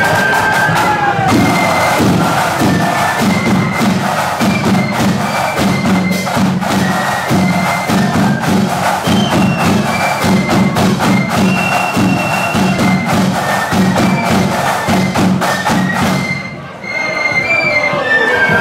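Marching flute band playing: flutes carry the tune over rapid snare-drum strokes and regular bass-drum beats. The music dips briefly near the end before the flutes come in again.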